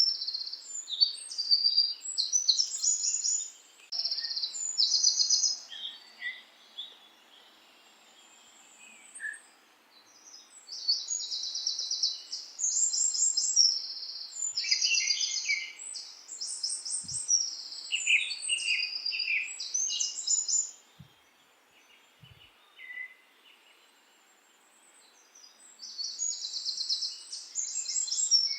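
Small birds chirping and singing in fast, high trills, coming in bursts with two short lulls, over a faint steady hiss.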